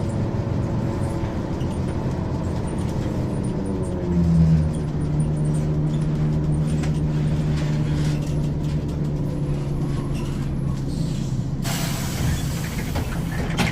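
Ikarus 435 articulated bus's diesel engine and ZF automatic gearbox running under way. About four seconds in the engine note changes and settles into a strong, steady drone. Near the end comes a hiss of released compressed air lasting about two seconds.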